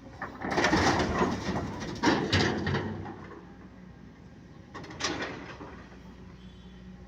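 Stones being dumped into the steel body of an Ashok Leyland BS6 tipper truck, with two loud crashes and a long clatter in the first three seconds and a shorter crash about five seconds in, over a steady engine hum.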